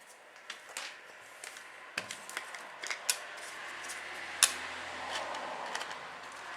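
Scattered clicks and taps with some rubbing, busier from about two seconds in: an aluminium corner strip being handled and pressed onto the corner of a wooden beehive box.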